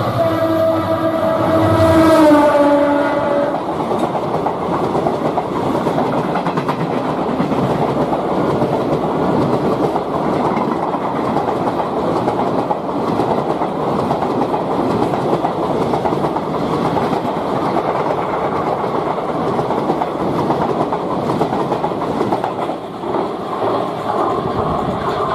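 Horn of an EMD WDP4D diesel locomotive sounding as the express runs through at speed, its pitch falling as the locomotive goes by. The horn stops about three and a half seconds in, and the coaches keep rushing past with steady wheel-and-rail noise.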